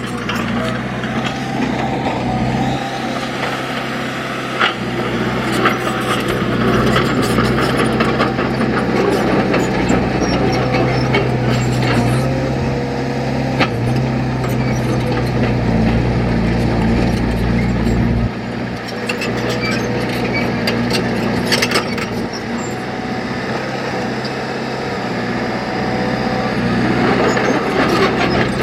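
Heavy diesel earth-moving machine running under work, its engine note shifting a couple of times, with scattered metallic clanks and knocks.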